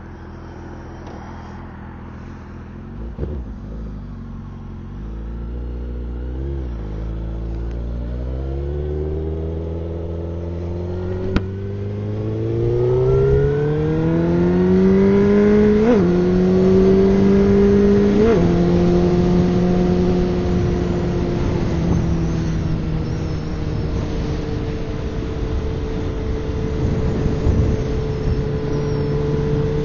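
Suzuki GSX-R1000 inline-four engine pulling away and accelerating, its pitch climbing steadily, with two quick gear changes a little past halfway, then holding a steady cruising speed. Wind noise rushes over the microphone throughout.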